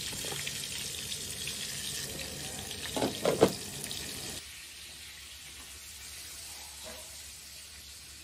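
Water running from a tap into a sink, with a couple of clunks about three seconds in. The running water drops off suddenly about four seconds in, leaving a softer steady hiss.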